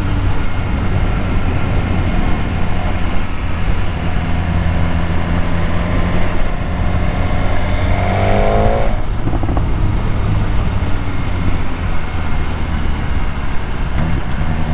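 BMW S1000R's inline-four engine running while the bike is ridden, under a steady rush of noise. A brief rising whine comes about eight seconds in.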